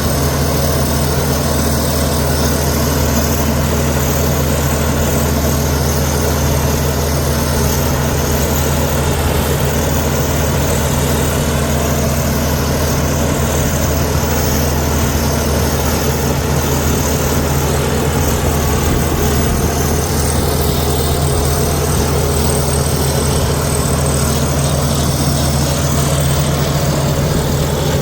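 Komatsu D61EX bulldozer's diesel engine running at a steady speed, a constant low drone with no revving up or down.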